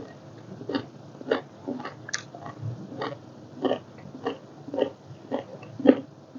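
A person chewing spicy seafood papaya salad close to the microphone: a steady run of short, wet chewing smacks, about two a second.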